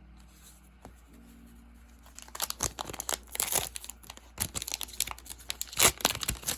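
A foil booster pack of trading cards being torn open and its wrapper crinkled: a dense run of crackling and tearing that starts about two seconds in and is loudest near the end.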